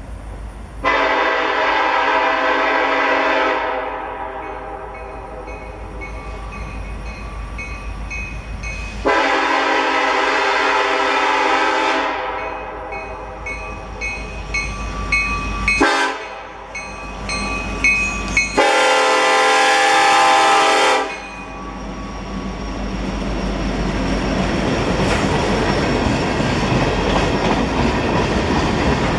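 Kansas City Southern freight locomotive's air horn sounding the grade-crossing signal: two long blasts, a short one, and a long one. A bell rings about twice a second between the blasts, and after the last blast the train's rumble builds as it passes.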